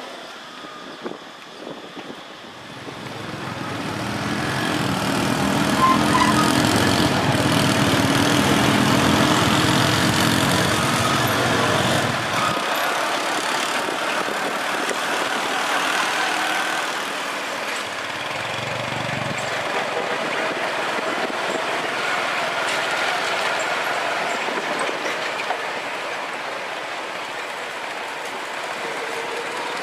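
Road traffic noise, with a motor vehicle's engine rumbling past in the first half and a shorter rumble later on.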